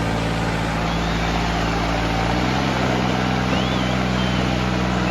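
Tractor diesel engine running steadily, its pitch rising a little about halfway through.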